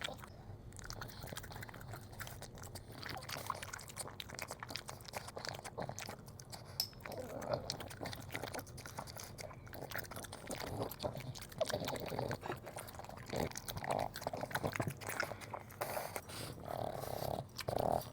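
A Boston terrier chewing and crunching food, with many quick, irregular crunches and mouth smacks.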